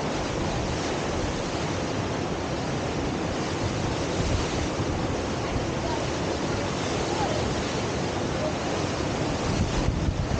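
Steady rushing of fast river water pouring over a standing river surf wave, with wind on the microphone.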